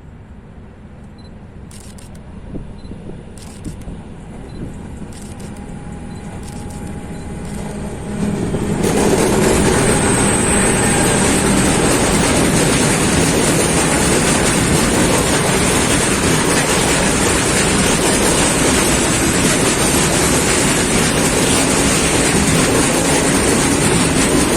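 Train approaching and passing close by: a rumble that grows for about eight seconds, with a few faint clicks, then jumps suddenly to loud, steady wheel-on-rail noise as the train goes past.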